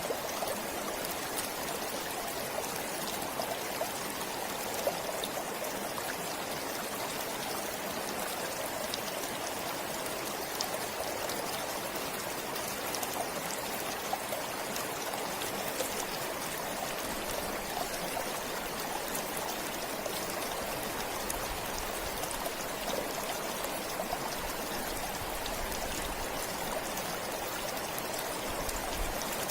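Forest stream flowing steadily: a constant rush of water with many small splashes.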